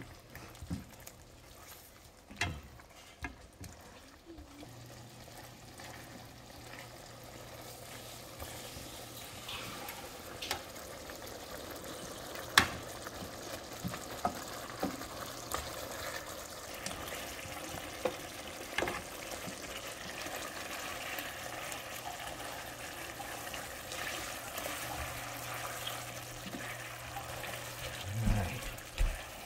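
Chicken wings simmering in a thick beer sauce in a pan, sizzling and bubbling, the sizzle building over the first several seconds, over a low steady hum. A few sharp clicks of tongs against the pan as the wings are turned.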